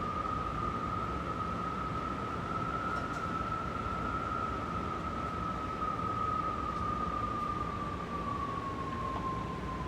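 Strong wind howling: a steady rush of air with one high, whistling howl that rises a little, then slowly sinks toward the end.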